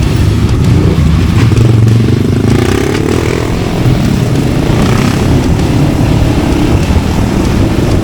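Yamaha XT600's single-cylinder four-stroke engine running through an aftermarket Arrow exhaust while riding, its pitch rising and falling with the throttle.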